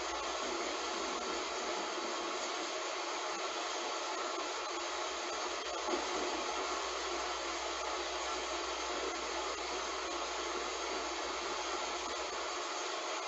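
Heavy rain falling steadily, an even hiss with a brief louder spatter about six seconds in.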